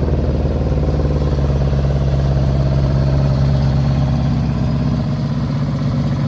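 1974 Honda CB350F's air-cooled inline four-cylinder engine easing down in the first moment and then idling steadily.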